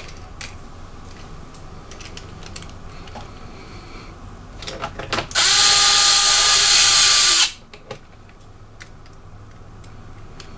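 Small clicks and taps of laptop parts and screws being handled, broken near the middle by a loud burst of hiss with a steady whine that runs for about two seconds and cuts off suddenly.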